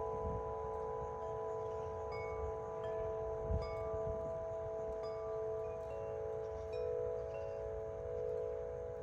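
Wind River Corinthian Bells tubular wind chimes (50-inch and 36-inch) ringing in strong wind. Several long, overlapping tones sustain while fresh strikes come in every second or so, over wind rumbling on the microphone that swells in a gust about three and a half seconds in.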